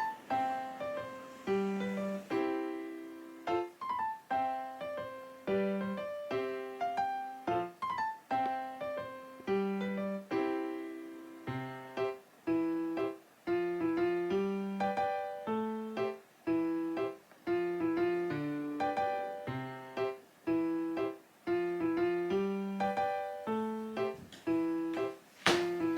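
Background music: a gentle piano melody with evenly paced notes.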